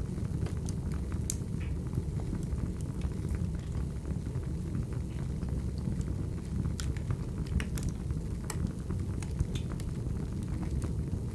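Crackling wood fire: a steady low rumble of flames with scattered sharp crackles and pops.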